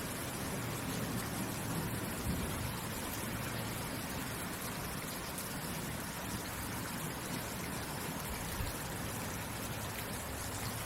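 Steady rain falling, a dense even hiss of drops with a few soft thuds.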